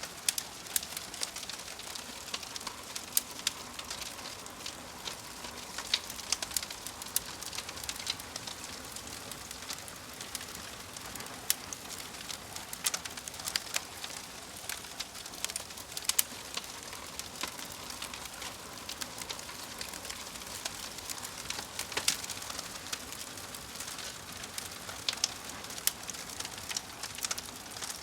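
Wood fire crackling steadily, with frequent sharp pops and snaps over a soft hiss.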